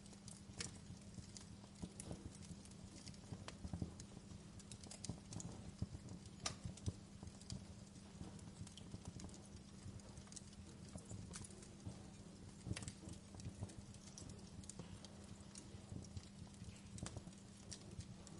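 Wood fire in a fireplace crackling: burning logs give off irregular sharp snaps and pops, some louder than others, over a faint low steady hum.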